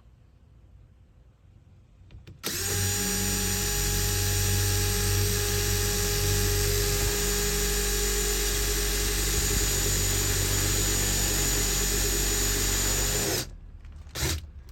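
Power drill running at a steady speed for about ten seconds, then stopping, followed by a couple of short trigger bursts.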